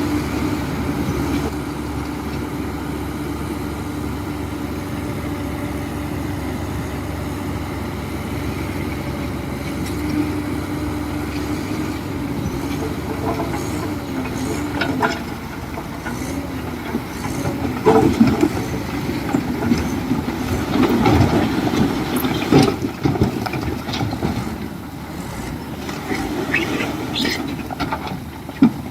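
Heavy construction machine's diesel engine running steadily, with clanking and knocks becoming frequent in the second half.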